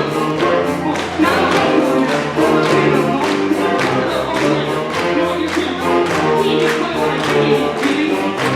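A wind band with percussion playing sustained chords over a steady beat.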